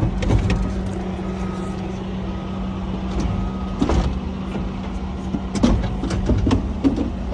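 An engine idling with a steady hum and low rumble. Several short clicks and knocks, sharpest about four seconds in and near the end, as parts are handled.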